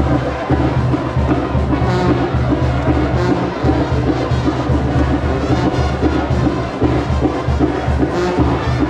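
Brass band playing continuously, with a steady low bass line under busier brass parts.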